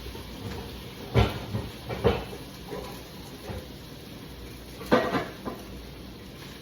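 Cookware being handled on a stovetop: a handful of clunks and knocks as pots are moved and set down, the loudest about a second in, two seconds in and five seconds in.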